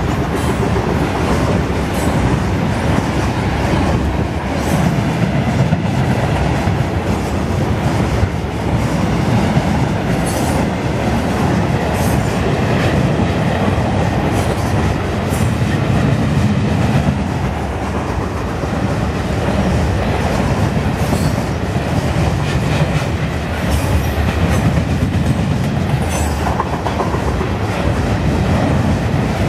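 Covered hopper cars of a long grain freight train rolling past over a short concrete bridge: a steady, loud rumble of steel wheels on rail, with many short clicks and faint squeaks from the wheels and cars.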